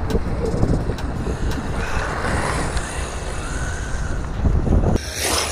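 Redcat Tornado EPX Pro brushless 1/10 RC car, running on a 3S battery, driving at speed: a steady rush of wind and tyre noise with a faint high motor whine. The sound changes abruptly about five seconds in.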